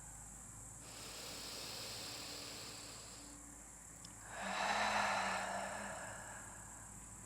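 A woman breathing deeply: a slow inhale, then about four seconds in a louder exhale through the mouth with a soft voiced sigh. Crickets chirp steadily behind.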